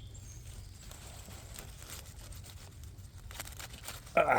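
Lettuce being pulled and torn from the ground by hand: soft rustling and crackling over a steady low rumble, ending with a short, loud voice sound from the picker.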